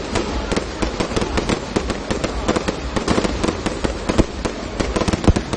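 Fireworks display going off: a rapid, continuous run of crackling pops and bangs, several a second, with one louder crack a little past four seconds in.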